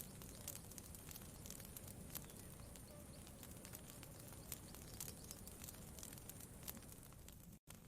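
Faint campfire crackling: scattered sharp pops and ticks over a low, steady rumble. The sound cuts out completely for an instant near the end.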